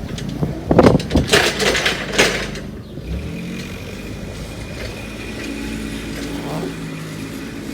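A vehicle engine running steadily at low revs, after a couple of seconds of loud knocking and rustling close by.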